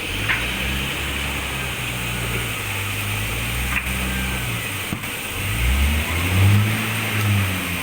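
Sawmill machine's engine running with a low, steady hum, with a few light knocks. Past the middle its pitch and loudness swell up and come back down.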